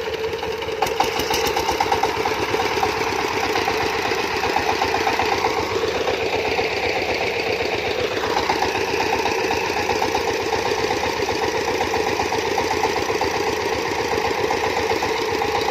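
Farm engine running steadily with a rapid, even knocking beat. It gets louder about a second in, and its note shifts in the middle before settling back.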